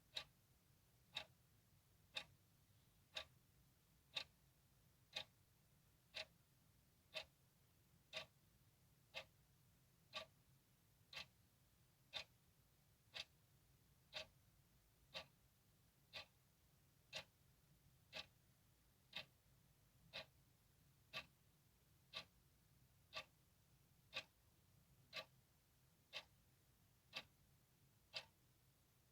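Clock ticking at a steady one tick per second, each tick a short, crisp click, over a faint low hum.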